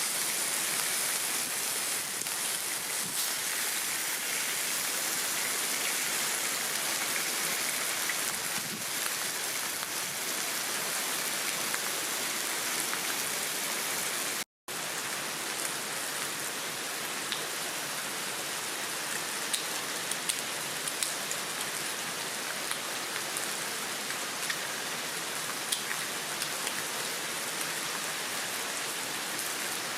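Heavy rain pouring down steadily. The sound cuts out for an instant about halfway through, and after that scattered sharp ticks stand out above the hiss.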